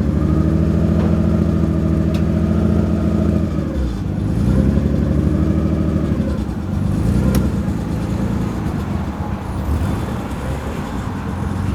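A car engine running at a steady speed, then easing off about four seconds in, then revving up and down.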